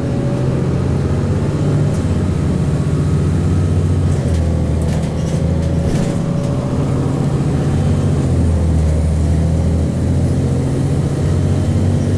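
2002 Blue Bird CS transit bus with its Cummins ISC inline-six diesel engine running, a steady low drone that shifts in pitch a few times. Light rattles come in around the middle.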